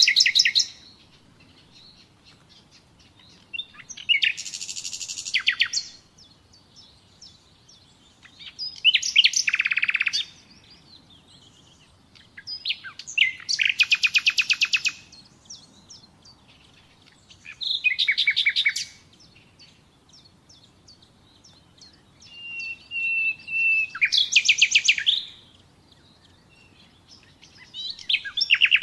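Common nightingale singing: short phrases of rapid repeated notes and trills every few seconds, with brief pauses between them. One phrase near the end opens on a long, level whistle.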